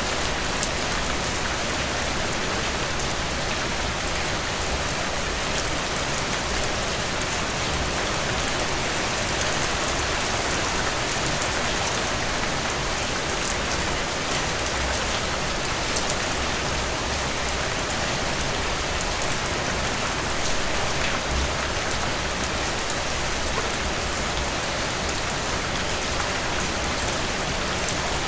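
Steady rainfall: an even hiss of rain with fine drop patter landing on surfaces, no thunder.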